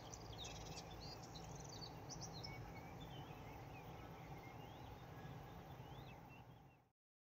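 Several songbirds chirping and trilling faintly over a low, steady background noise. The sound cuts off abruptly near the end.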